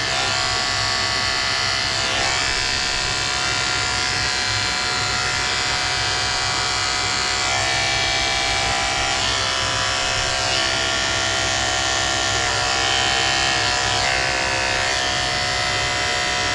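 Electric dog grooming clippers running steadily as the paw fur is shaved, the motor's pitch shifting slightly every few seconds.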